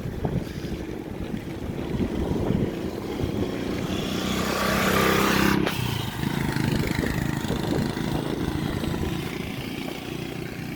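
Rumbling wind noise on the microphone during a bicycle ride. A steady engine-like hum swells in the middle and cuts off suddenly about halfway through.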